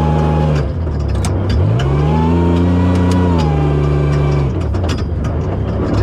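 Toyota Tacoma prerunner's engine revving up and down while it is driven hard over sand dunes. The revs drop about half a second in, climb again and hold, fall away twice, and climb once more near the end, with scattered clicks and knocks throughout.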